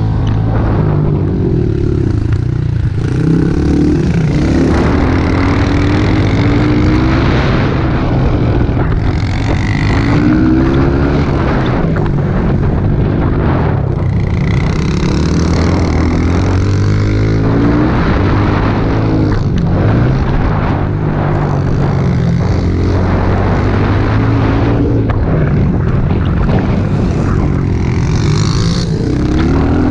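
Small four-stroke pit bike engine running under load while riding, its pitch climbing and dropping over and over as the throttle is worked.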